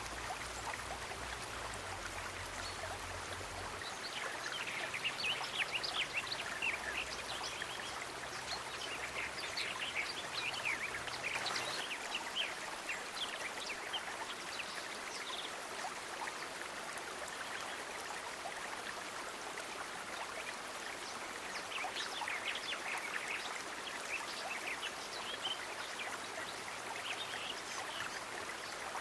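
Steady hiss of running water, with bursts of rapid, short animal calls about 4 to 12 seconds in and again near the end.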